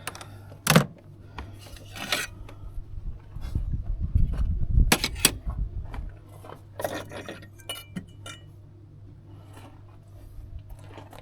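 Hand tools and metal car parts clinking, knocking and scraping during dismantling work around an engine, with a sharp knock about a second in and a low rumbling stretch in the middle.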